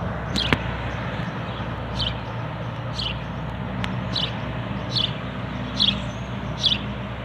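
A bird calling over and over, a short high falling note about once a second, over a steady low background hum.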